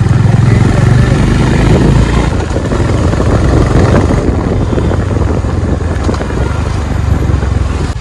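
Honda CB350RS single-cylinder engine running under way at about 35–40 km/h, with wind rushing over the microphone. Both ease off near the end.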